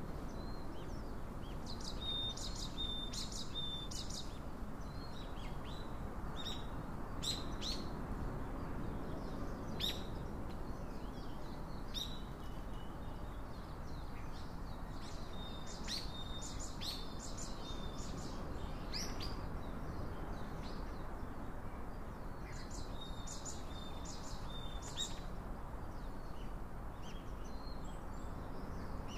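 Birds chirping and singing in short, repeated phrases over a steady background hiss.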